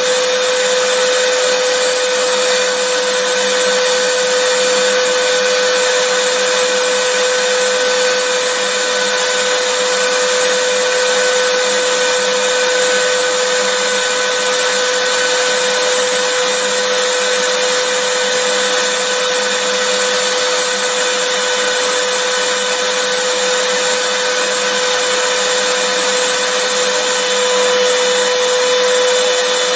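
Vacuum cleaner running steadily, a constant rushing noise with a steady whine from its motor.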